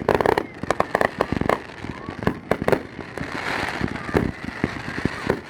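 Fireworks display going off: many sharp bangs and pops in quick, irregular succession, with a burst of crackling hiss about halfway through.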